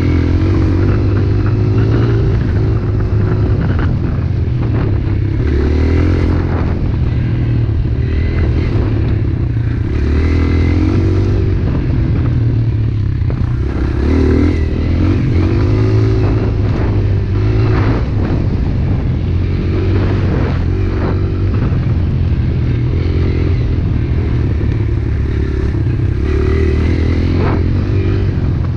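Pit bike engine running as the bike is ridden, its pitch rising and falling over and over with throttle changes, with occasional knocks.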